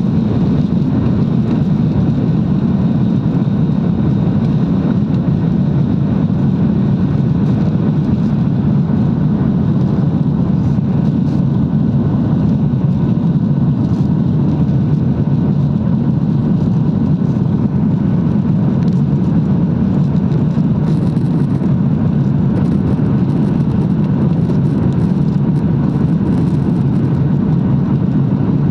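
Airliner cabin noise during takeoff and climb: engines and airflow make a steady, loud, low rushing noise that holds even throughout.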